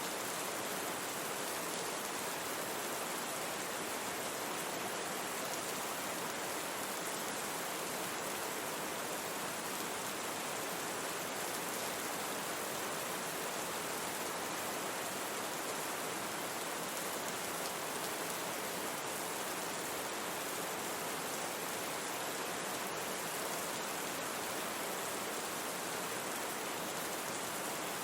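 Steady rain falling, an even hiss with faint pattering of drops and little low rumble.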